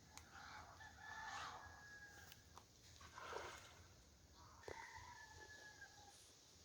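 Rooster crowing in the distance: two faint drawn-out crows about three seconds apart.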